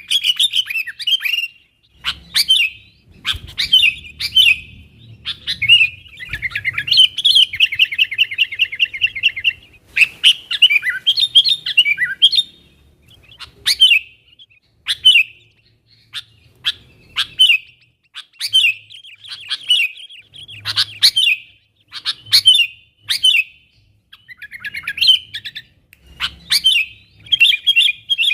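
Sooty-headed bulbul calling loudly and repeatedly in short bubbly chirping phrases, with a fast rattling trill about seven seconds in.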